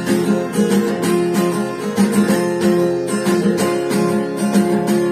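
Acoustic guitar strummed in a steady rhythm, chords ringing between sung lines of the song.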